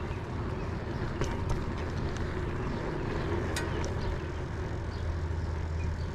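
Steady low rumble of road and wind noise while riding a bicycle along a street, with a few light clicks and a slight swell in the middle.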